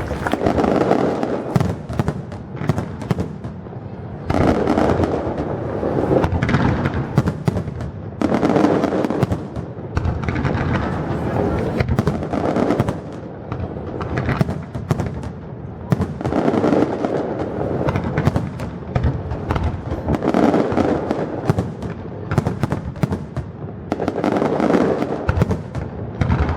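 Fireworks display going off in a dense, continuous barrage of bangs and crackles, swelling in waves every few seconds.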